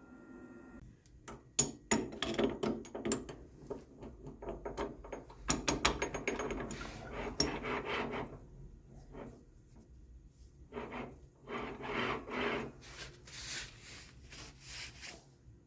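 Hand tools being worked during a mechanical repair: rubbing and scraping with a run of sharp clicks and taps, in irregular bursts.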